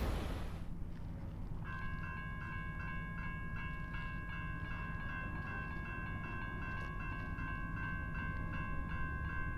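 Railroad grade crossing bell ringing in a fast, even rhythm, starting about two seconds in, over the low rumble of a receding freight train.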